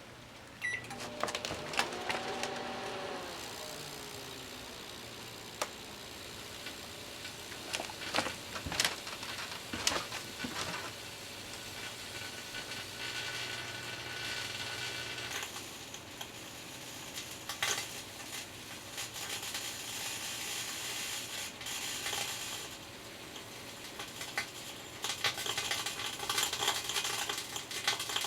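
Microwave oven running with a metal aerosol can of hair dye inside: irregular crackling and sharp snaps of sparking over the oven's steady low hum.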